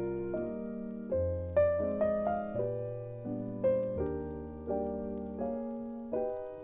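Soft background piano music: gentle chords and notes struck every second or so, each fading away.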